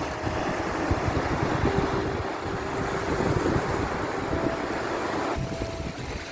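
Sea waves and surf washing in a steady rush, with a rumbling low end.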